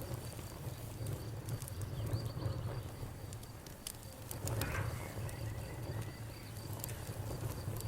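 Campfire crackling, with irregular sharp pops over a low steady rumble of the burning wood. A steady, pulsing, high insect trill runs underneath.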